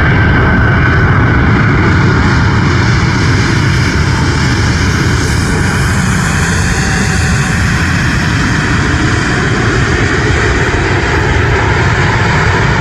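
Jet airliner engines, an Airbus A380's, running with a steady, even noise and a faint high whine that slowly dips and rises in pitch.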